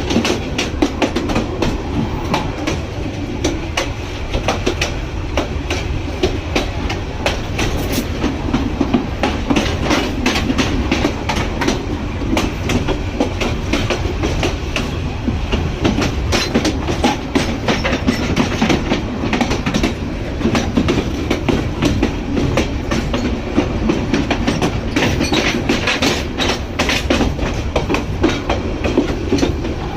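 A train running on the track, its wheels clattering over the rails in a continuous stream of clicks and knocks over a steady rumble.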